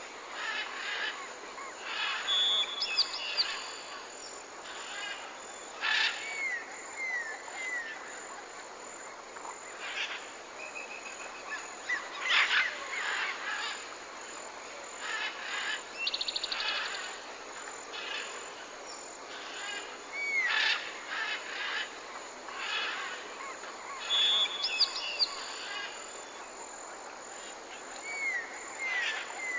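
A mixed chorus of rainforest birds calling: sharp chips, short trills and whistled notes that rise at the end, overlapping over a steady forest hiss. The same run of calls comes round again about twenty seconds later.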